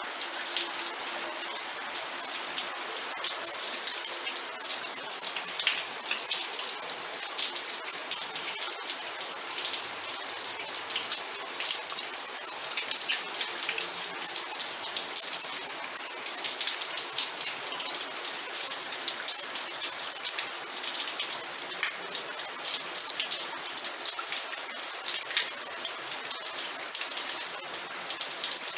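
Steady rain: a dense patter of drops over an even hiss, with most of the sound in the high range.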